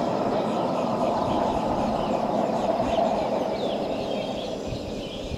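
Rhaetian Railway passenger train running across a stone viaduct. Its steady rail noise slowly fades as it moves away. Birds chirp on top of it.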